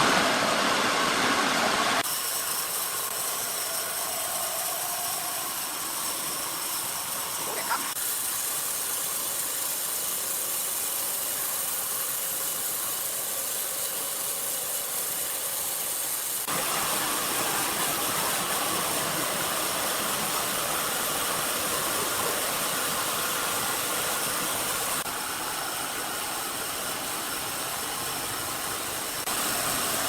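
Sawmill machinery running steadily with a loud, noisy machine sound. It changes abruptly in level and tone several times, with a single click about eight seconds in.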